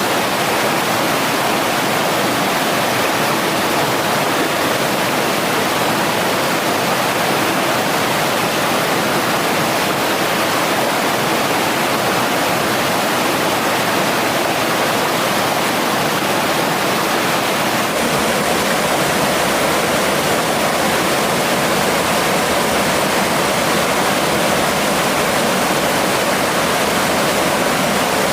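Rushing water of a mountain stream, a steady unbroken noise.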